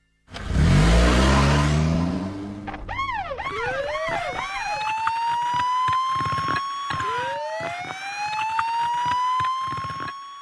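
Cartoon sound effects: a loud rushing burst with a rising, engine-like rev, then a police siren that yelps quickly a few times and goes into two long rising wails, each falling away at its end.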